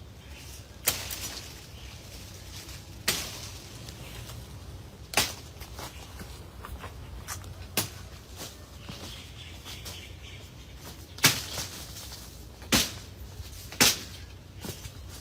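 About seven sharp knocks or clanks at irregular intervals, a couple of seconds apart, over a steady low hum.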